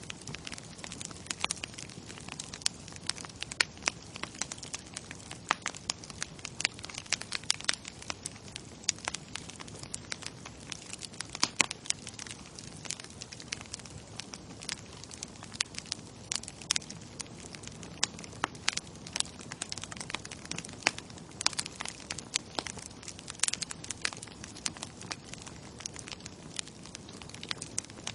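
Bonfire crackling: frequent sharp pops and snaps at irregular intervals over a steady low hiss of burning wood.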